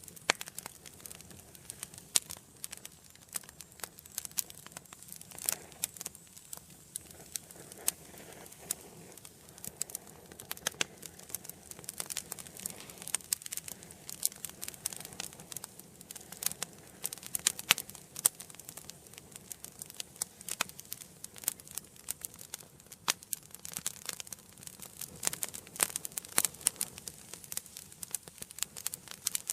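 Wood fire burning in an indoor fireplace, crackling and popping constantly over a soft hiss, with a few louder sharp pops.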